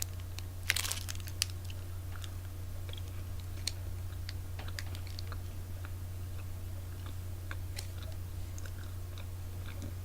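A bite into a trail mix bar a little under a second in, a short cluster of crunches, followed by quiet chewing with scattered small crunches. A steady low hum runs underneath.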